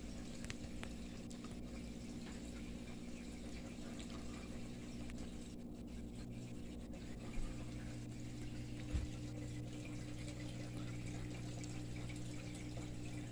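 EnviroFan Silverline ceiling fan running steadily on low speed: a motor hum under the rush of air from the blades. Two brief knocks come about seven and nine seconds in.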